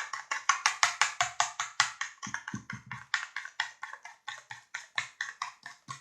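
A spoon clacking against a mixing bowl as batter is stirred fast, making a quick, even run of clicks, about five or six a second.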